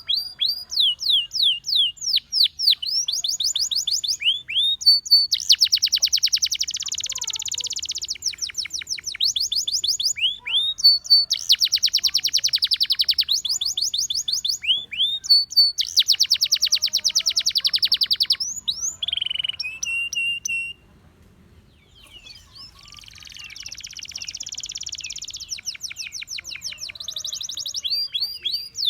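Gloster canary singing: runs of quick falling whistled notes alternate with long, fast, rattling trills, with one lower held note and a short pause about three-quarters of the way through.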